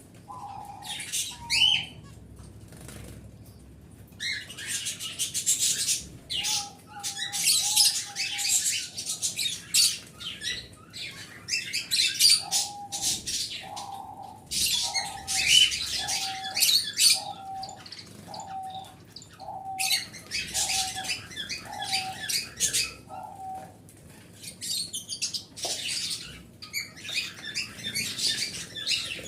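Small pet birds chirping and chattering in dense high-pitched bursts, with a steady series of about a dozen repeated lower call notes, roughly two a second, in the second half.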